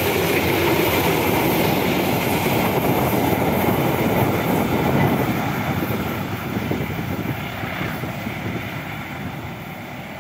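A train running past on the rails, its wheels clattering over the track, fading steadily as it moves away.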